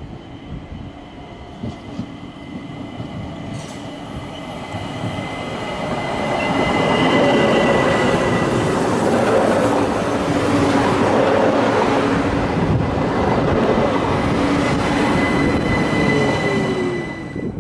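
ÖBB Cityjet electric multiple unit pulling in alongside the platform: the rumble of wheels on rail grows loud over several seconds as it draws level, with a thin steady high squeal over it. Near the end a motor whine falls in pitch as the train brakes toward a stop.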